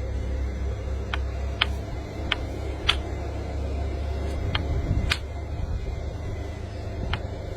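Sharp taps on an opal-bearing rock to split it along the opal bar, about seven taps at uneven spacing, over a steady low hum.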